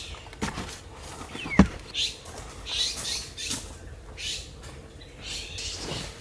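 Camping gear being handled: short, scattered rustles and one sharp knock about one and a half seconds in.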